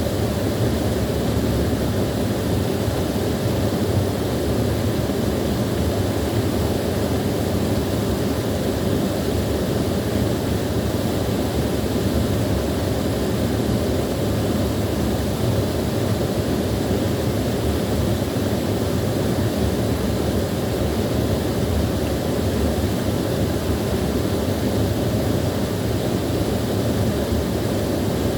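Small waterfall: water falling and flowing in a steady, unbroken rush, deep in tone.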